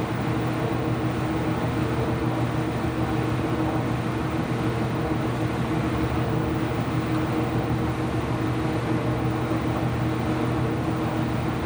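An IPSO washing machine running, a steady motor hum with a few constant low tones over a noise, with no change in speed.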